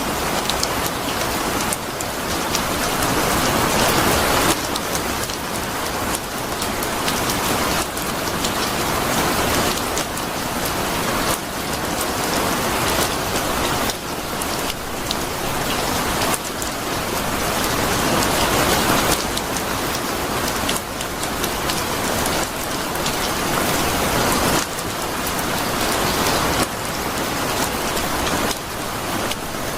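Steady heavy rain falling on a surface, a dense patter of drops that swells and eases slightly every few seconds.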